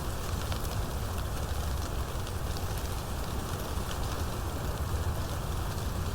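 Steady rain falling, with a constant low rush and scattered sharp ticks of individual drops.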